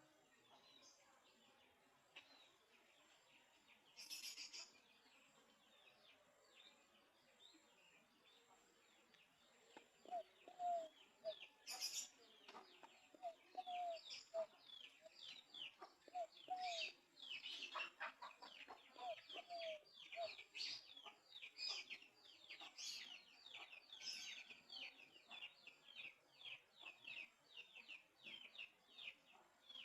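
Zebra dove (perkutut) cooing in short runs of soft, low notes from about a third of the way in to past the middle. Many small birds chirp rapidly and densely over the second half. A couple of sharp clicks come near the start.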